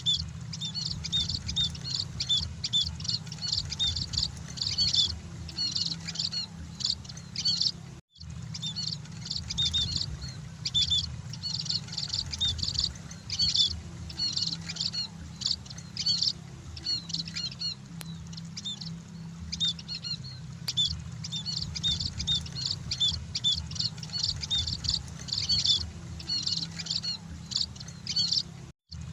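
A flock of munias (emprit) chirping: many short, high chirps overlapping without a pause, over a steady low hum. The sound cuts out for an instant about eight seconds in and again just before the end.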